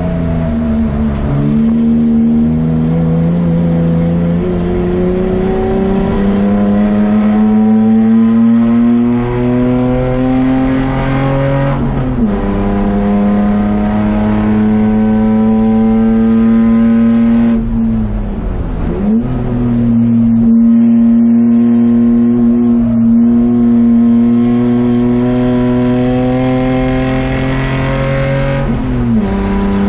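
BMW 635CSI's 3.5-litre straight-six race engine heard from inside the stripped cabin, pulling under load with its pitch climbing slowly over long stretches. The engine speed drops sharply and briefly about twelve seconds in, again around eighteen seconds, and once more near the end.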